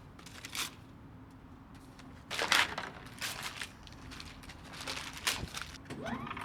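Paper trash being crumpled and handled in short crackling bursts, the loudest about two and a half seconds in.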